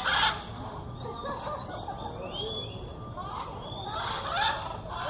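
Free-flying parrots squawking harshly, once right at the start and again about four seconds in, with thin high rising chirps between the squawks.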